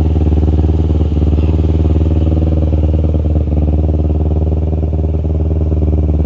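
Kawasaki Ninja 250 motorcycle's parallel-twin engine idling steadily, with no revving.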